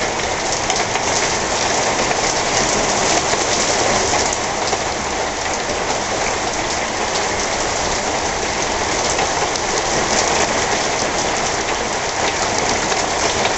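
Heavy thunderstorm rain falling steadily: a dense, even downpour that holds at one strength throughout.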